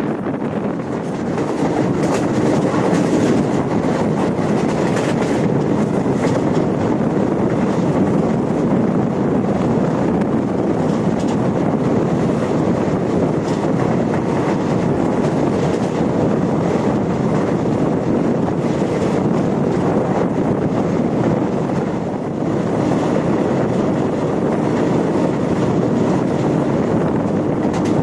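A moving passenger train running along the track: a steady rumble of wheels on rails with scattered rattles.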